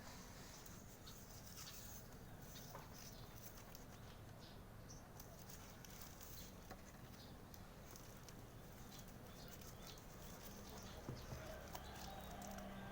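Birds feeding: faint, scattered light taps and patter over a low steady background hum.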